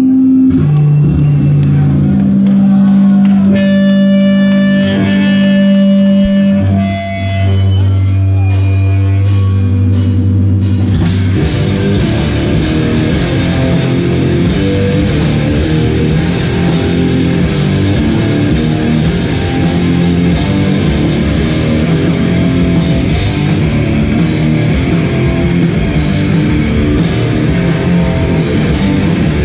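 Hardcore band playing live, loud. It opens with held, ringing guitar and bass notes and a few cymbal crashes, then the full band comes in with drums and distorted guitars about eleven seconds in.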